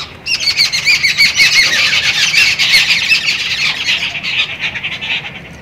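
Birds squawking loudly in a fast, chattering run of harsh calls, starting just after the opening and fading out near the end.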